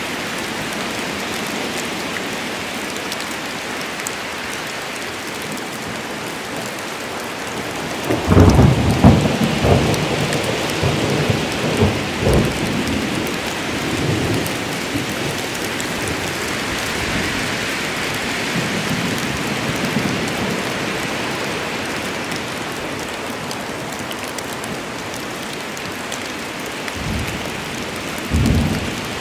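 Steady rain falling in a forest, with a loud rolling crack of thunder about eight seconds in that rumbles on for several seconds, and a shorter rumble of thunder near the end.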